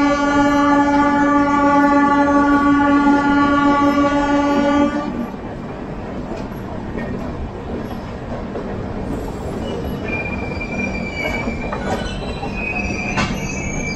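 A train horn holds one long steady blast that cuts off about five seconds in. Then the moving train's wheels rumble and click over the rail joints, with a thin high wheel squeal in the last few seconds.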